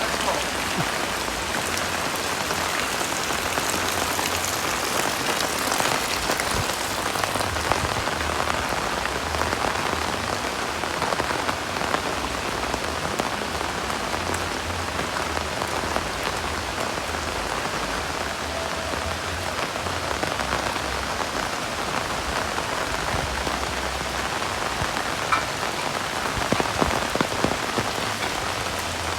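Heavy rain falling steadily, with a few sharper, louder drops or taps near the end.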